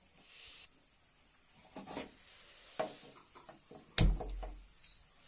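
A few knocks and clatters of kitchen utensils and cookware being handled, the sharpest a single hard knock with a low thud about four seconds in.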